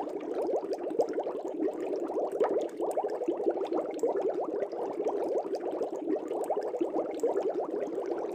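Aquarium air bubbles rising and bursting at the water surface in a steady, dense bubbling.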